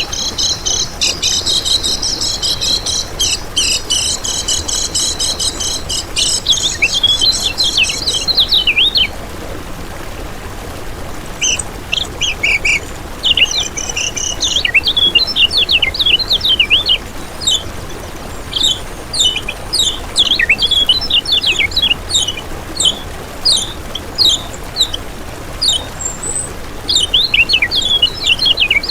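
Kecial kuning white-eye singing: high, fast twittering, a dense unbroken stretch for about the first nine seconds, then after a short pause a run of brief, quick chirped phrases.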